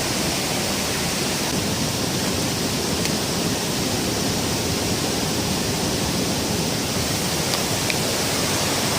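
Steady rush of fast-flowing stream water and a nearby waterfall.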